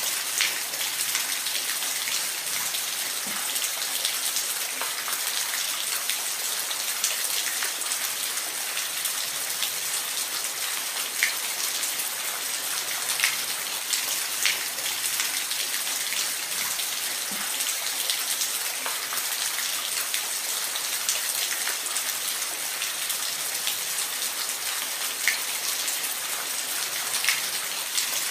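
Falling water: a steady, even hiss of water spattering, with brief drip-like ticks and splashes every second or two.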